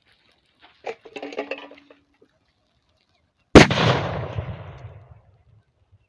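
A firecracker going off inside a helmet: one sharp, loud bang about three and a half seconds in, its rumble fading over a second and a half. A shorter, quieter rattle comes about a second in.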